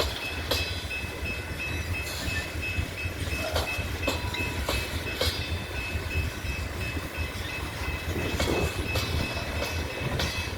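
Loaded coal train rolling slowly in a rail yard: a steady low rumble with irregular clicks and knocks from the cars and wheels, and a faint steady high whine above it.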